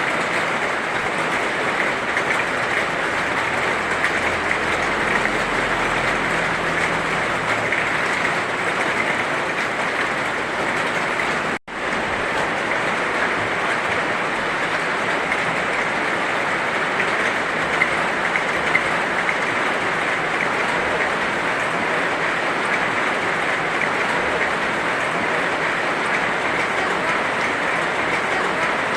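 Heavy rain falling steadily, with a brief cut to silence about twelve seconds in.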